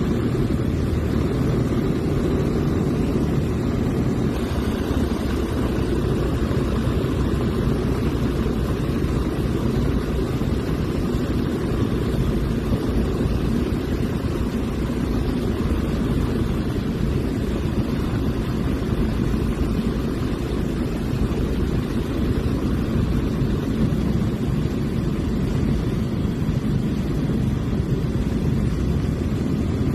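Small propeller airplane's engine and propeller droning steadily in cruise, heard from inside the cockpit, with rushing air noise.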